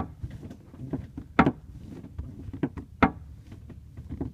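Short, sharp creaks from the rear right quarter trim area of a 2003 Ford Mustang Mach 1's cabin, three of them about a second and a half apart, over a steady low rumble. This is the rear-right creak being tracked down, still present when the side trim is pressed.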